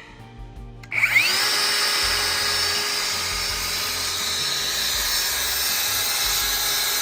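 Electric power saw cutting a 2x4: the blade spins up with a rising whine about a second in, then runs steadily at a high pitch through the cut.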